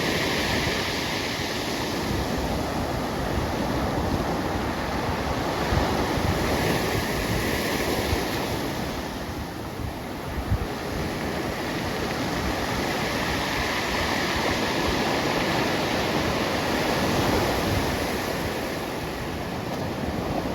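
Pacific Ocean surf washing ashore, a steady rush that swells and eases every few seconds, with wind buffeting the microphone.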